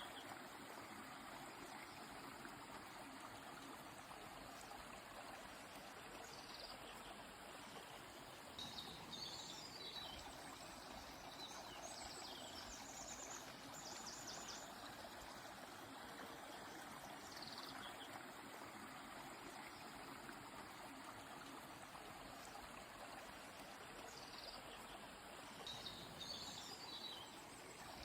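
Steady, faint rush of a flowing stream, with small birds chirping high above it now and then, including a quick trill about halfway through.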